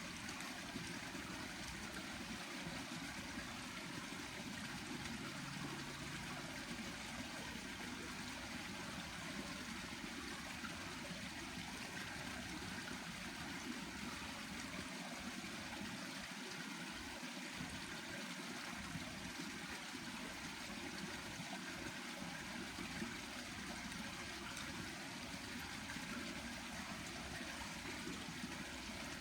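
River water flowing steadily, a constant even rush.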